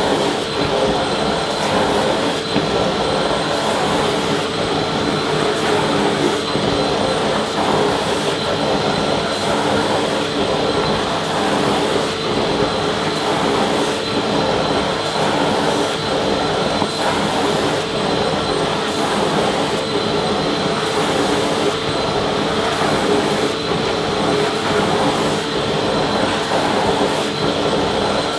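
Vacuum cleaner running steadily: a constant loud rush of air with a steady motor whine.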